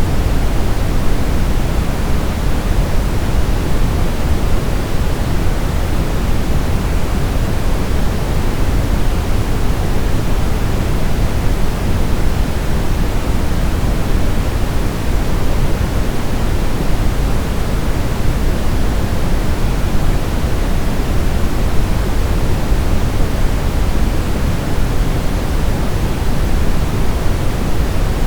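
Steady brown noise: an even, unchanging hiss weighted heavily toward the deep low end, like a distant rumbling rush.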